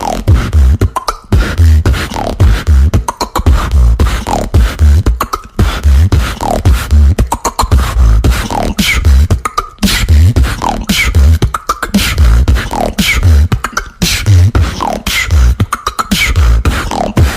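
Vocal beatboxing: a steady looped beat of deep bass kicks and sharp clicks, with a short falling vocal swoop about once a second.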